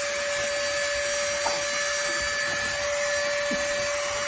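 Steady, loud whirring noise of an electric motor appliance, with a constant hum.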